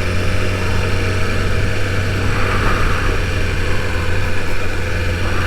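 BMW S1000RR inline-four engine running at a steady, even engine speed, with no revving.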